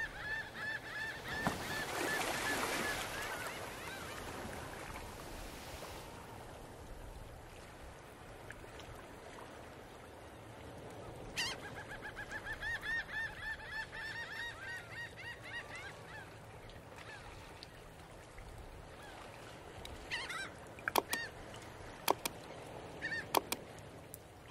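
Birds calling in quick runs of short, repeated calls, once at the start and again about eleven seconds in, over a faint background hiss. A few sharp clicks come near the end.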